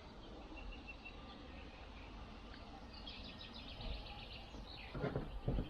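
Small birds chirping and trilling over a low steady rumble, with two short low thuds near the end.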